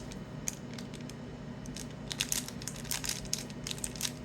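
Sealed trading-card packs being handled in their box, their plastic wrappers crinkling with many small irregular crackles and clicks.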